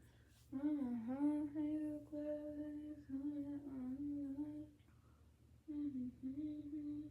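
A woman humming a slow tune with long held notes, pausing for about a second near the end before humming on.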